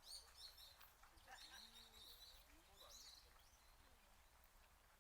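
Faint birds chirping in short, high calls during the first three seconds, over quiet outdoor ambience.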